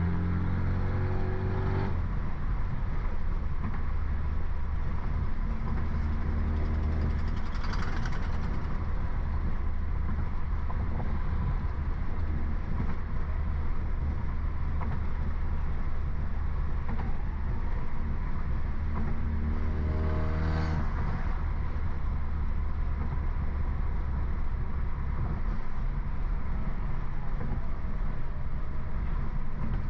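BMW F30 328i's turbocharged four-cylinder engine and tuned exhaust (stage 2, downpipe) running under way: a steady low drone whose note swells a few times as the engine is revved, with a brief sharp sound twice.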